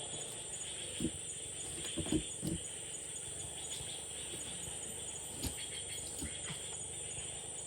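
Steady high-pitched buzz of forest insects, with a few short knocks, about 1, 2 and 5.5 seconds in.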